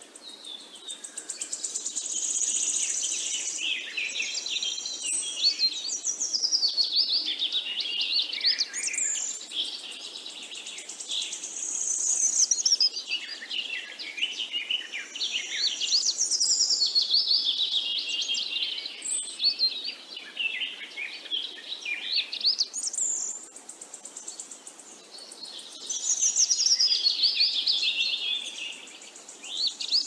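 Several wild birds singing together, a dense chorus of high chirps and warbling phrases that swell and fade every few seconds.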